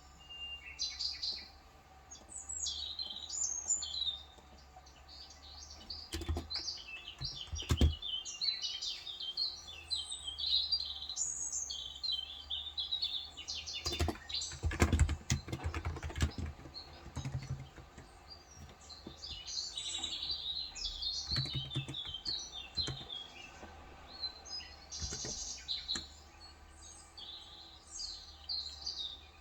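Small birds chirping and twittering almost without pause. Several short runs of typing on a Cox Endeavor 35 g electrostatic capacitive tenkeyless keyboard come through, and the keystrokes are the loudest sounds, heaviest about halfway through.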